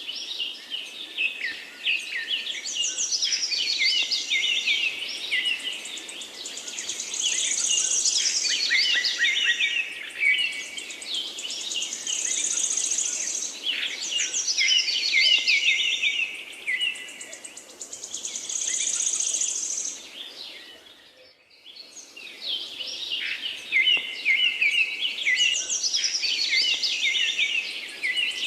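A dense chorus of small birds chirping and trilling rapidly, with a soft steady background hiss; the chorus breaks off briefly about 21 seconds in, then resumes.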